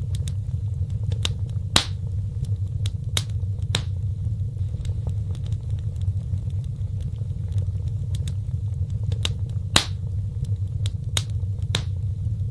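Wood fire burning in a fireplace: scattered sharp crackles and pops over a steady low rumble, with two louder pops about two seconds and ten seconds in.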